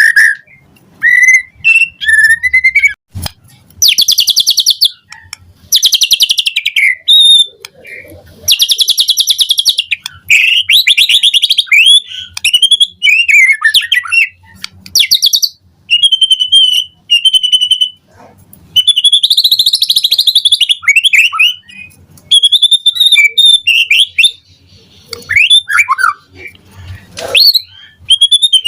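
White-rumped shama (murai batu) singing. The song is a run of loud whistled phrases, with sliding notes and fast trills, broken by short pauses.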